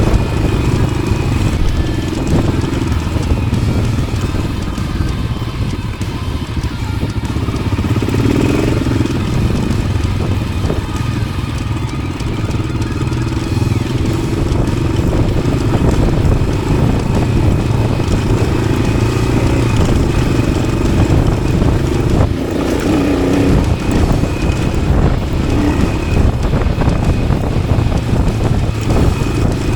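A 1993 Yamaha XT600's air-cooled single-cylinder engine running under way through an aftermarket Arrow exhaust. The engine note changes a few times as the revs rise and fall.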